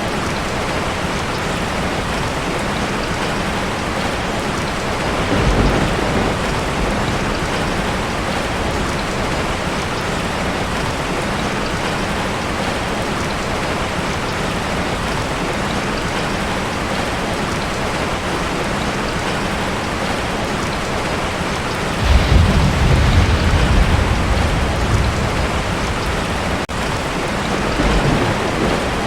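Heavy rain drumming steadily on a tin roof, with rolls of thunder. A short rumble comes about five seconds in, a longer, louder one in the second half, and a brief one near the end.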